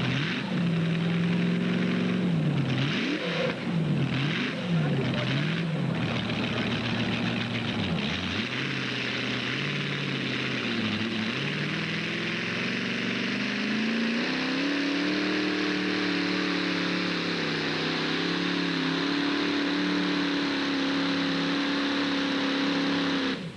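Modified pulling tractor's engine, revved up and down sharply several times, then climbing and holding at high revs.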